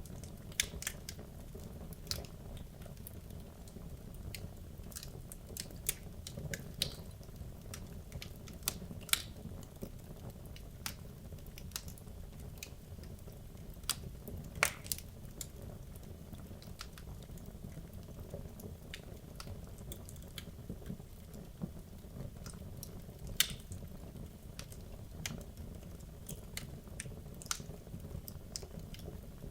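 Wood logs burning in a fireplace: a steady low rumble of the flames with irregular sharp crackles and pops, a louder pop about halfway through.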